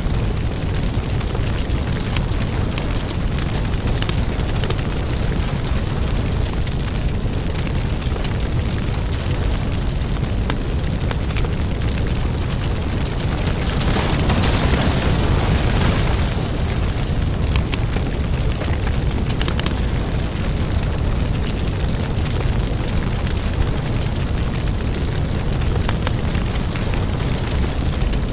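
Wood fire burning in a fireplace: a steady low rumble of flames with frequent small crackles and pops, and a louder hiss lasting a couple of seconds about halfway through.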